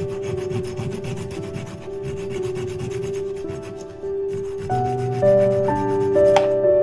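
A hand saw cutting wood in rhythmic rasping strokes, over soft music with held notes. The sawing stops about four seconds in.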